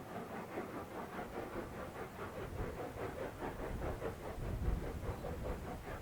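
Steam locomotive working a train, its beats coming in a quick, even rhythm over a low rumble that swells about four seconds in.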